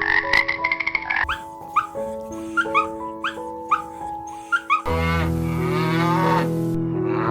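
Cow mooing over light background music; before the moo, a run of short, evenly repeated rising calls.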